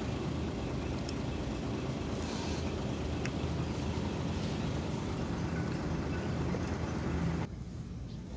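An engine running with a steady low drone, which cuts off suddenly about seven and a half seconds in.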